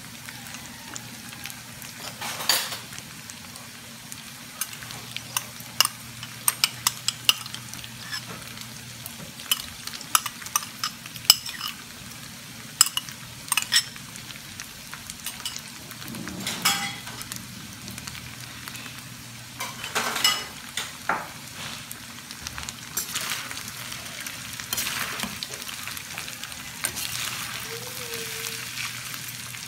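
Chicken and tofu sisig sizzling on a hot metal tray. Metal spoon, fork and spatula clink and scrape against the tray as mayonnaise is mixed in, giving many irregular sharp clicks over a steady hiss.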